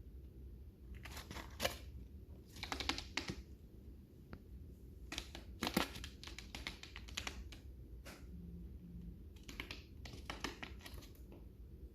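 Lovebirds eating seed: a few clusters of small, sharp clicks and crackles as beaks crack seed husks.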